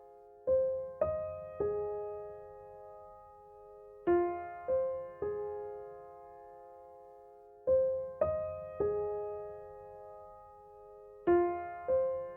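Background music: slow, gentle piano, playing groups of three notes about every three and a half seconds, each left to ring and fade away.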